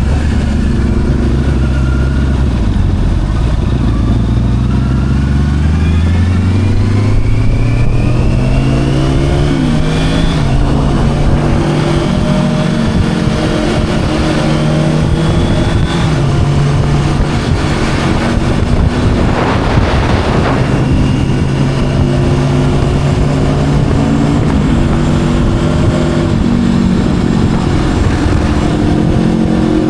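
Motorcycle engine accelerating, its pitch climbing for about ten seconds with a short drop around ten seconds in, then running at a steadier speed with small rises and dips. A brief rush of noise comes about twenty seconds in.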